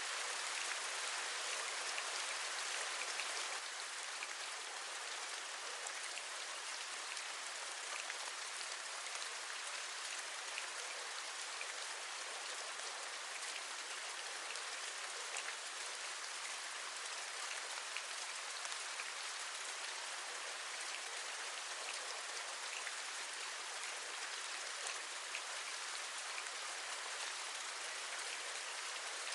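Steady rain hissing, with single drops tapping through it; it eases slightly about three and a half seconds in.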